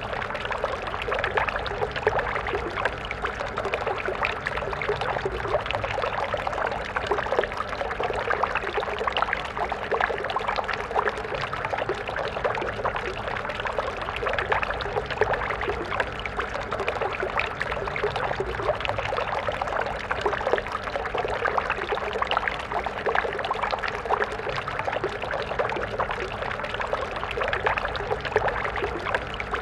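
Water stream flowing steadily over stones, a continuous babbling and splashing.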